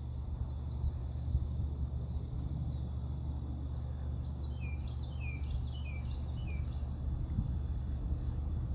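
Outdoor ambience: a steady high insect drone over a low rumble, with a bird giving a quick run of about seven chirps around the middle.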